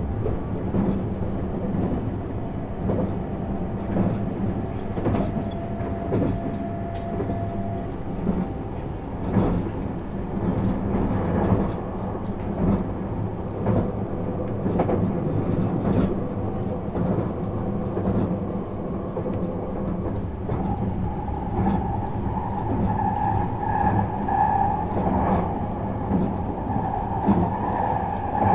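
Interior running sound of a JR 651 series electric multiple unit under way: a steady rumble of wheels on track, with frequent short clicks and knocks. About two-thirds of the way through, a steady higher-pitched tone joins the rumble.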